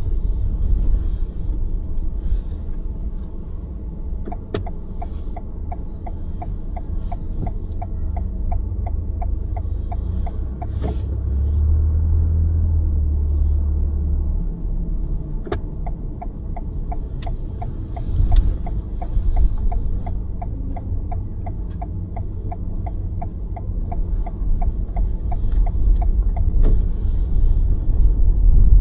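A car driving on city roads, with a steady low rumble of road and engine noise. A quick, even ticking at about two to three ticks a second runs for several seconds twice, and there are a few single sharp clicks.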